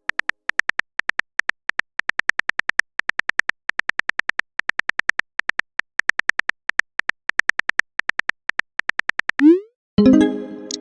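Chat-app typing sound effect: rapid, identically pitched keyboard ticks, several a second with short pauses, then a quick rising swoop as a message is sent about nine seconds in, followed by a pitched chime of an incoming message near the end.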